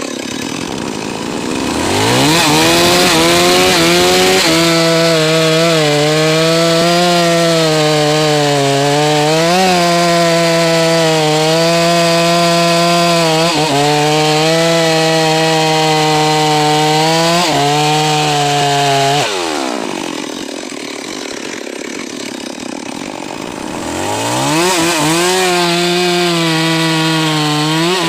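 Stihl MS 381 two-stroke chainsaw running. It revs up about two seconds in and holds high revs with a few brief dips, drops back to idle about two-thirds of the way through, then revs up again near the end.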